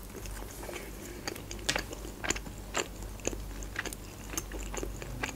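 A person chewing a mouthful of pizza, with soft crunches and wet clicks at irregular intervals.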